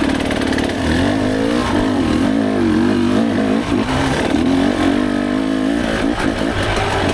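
Dirt bike engine revving up and down over and over, its pitch rising and falling about once a second as the throttle is worked.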